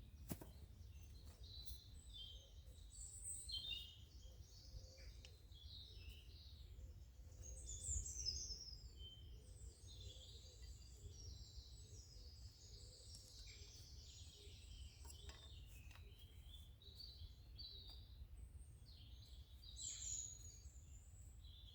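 Faint woodland birdsong: small birds chirping and calling all through, over a low steady rumble.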